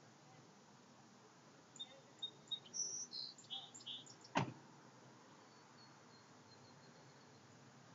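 Small birds chirping in short, high-pitched notes for a couple of seconds, then a single sharp knock about four and a half seconds in, the loudest sound; faint steady outdoor background noise otherwise.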